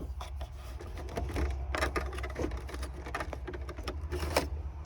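Irregular clicks and light knocks of plastic dash trim and a screwdriver being handled during dashboard disassembly, over a steady low hum.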